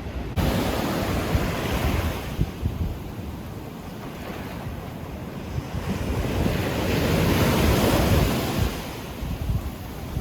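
Sea waves washing onto the shore, swelling to a peak about eight seconds in and then easing off, with wind rumbling on the microphone.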